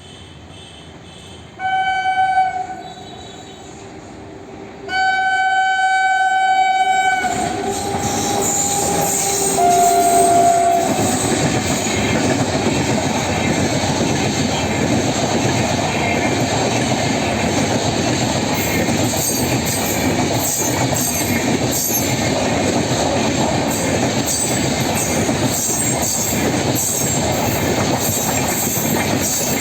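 Indian Railways locomotive horn sounding a short blast, then a longer one, its pitch dropping slightly as it fades. The train then passes close by with loud steady wheel and rail noise and a run of clicks over the rail joints.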